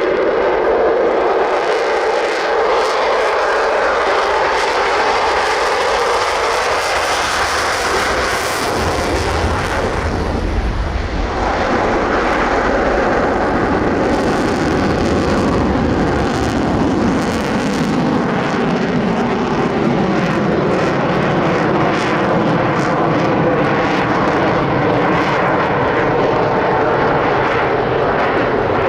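F-22 Raptor's twin turbofan jet engines running loud during a low demo pass. Its pitch sweeps down as it goes by about ten to eleven seconds in, and the roar carries on, falling further as it moves away.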